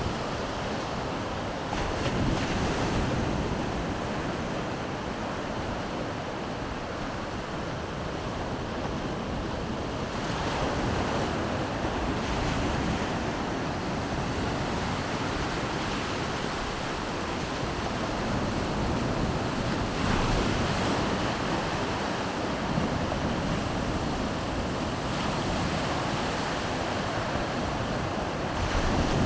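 Baltic Sea surf breaking on the beach: a steady wash of water that swells every eight to ten seconds as each wave comes in, with wind buffeting the microphone.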